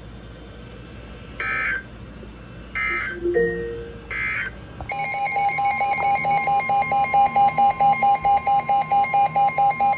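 NOAA weather radio alert signal. Three short bursts of warbling digital data tones, the SAME header that encodes a new warning, are followed from about halfway through by a loud pulsing alarm tone, about five beeps a second.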